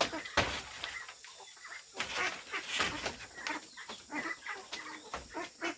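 Chickens clucking in short irregular calls, with scattered short knocks among them.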